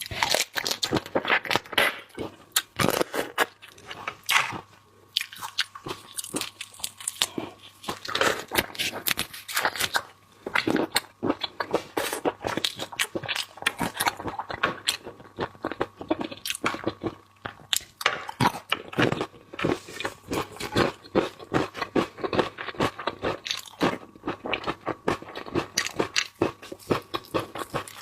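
Close-miked eating of seafood: dense, irregular crunching, biting and chewing, with many sharp crunches in quick succession and short pauses between mouthfuls.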